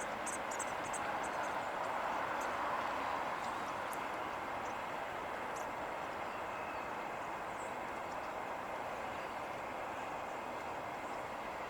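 Steady traffic noise, swelling slightly in the first few seconds as a vehicle goes by, then holding steady, with a few faint high chirps early on.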